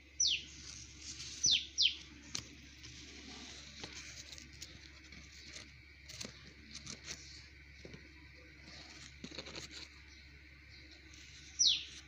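Tailorbird giving short, sharp call notes that slide downward in pitch: one just after the start, a quick pair about a second later, and one more near the end. Faint rustling and ticks in between.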